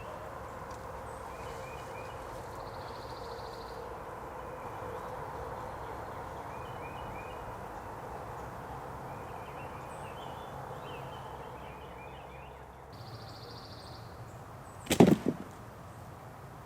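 Quiet early-morning outdoor ambience: a steady background hum with small birds chirping faintly now and then. About fifteen seconds in comes one sharp, loud knock, much louder than the rest.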